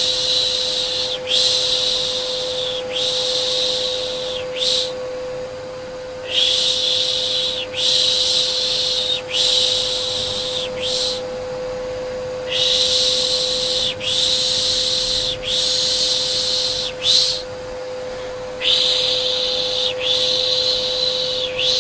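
Soothing 'shh' shushing for a baby: three long shushes and a short one, then a short pause, repeating about every six seconds. Underneath runs the steady hum of an electric vacuum cleaner.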